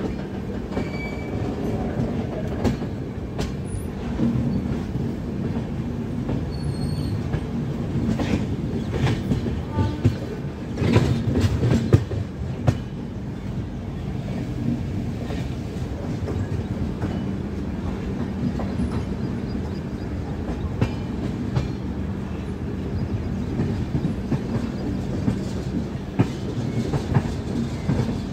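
Karnataka Express passenger coach running out of the station, heard from its open doorway: wheels clicking over rail joints, with a steady hum under the running noise. There is a louder burst of clatter about eleven seconds in.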